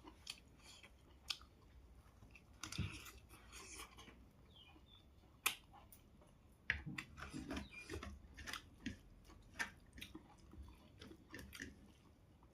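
A person chewing and eating close to the microphone, with scattered sharp mouth clicks and short wet bursts.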